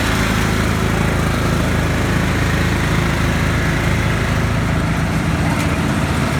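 Small tractor engine running at a steady speed.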